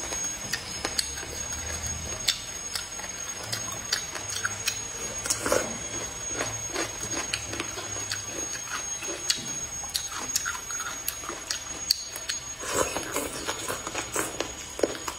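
Close-miked chewing and lip-smacking while eating boneless chicken feet in chili sauce: a steady run of short wet clicks and smacks, thicker and louder near the end as another piece is bitten into.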